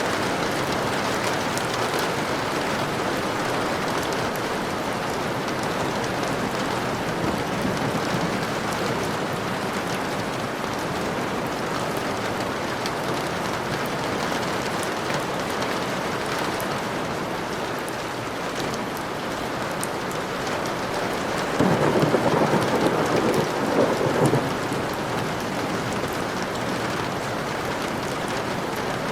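Steady heavy rain falling as an even hiss. Near the end comes a louder, lower burst lasting about three seconds.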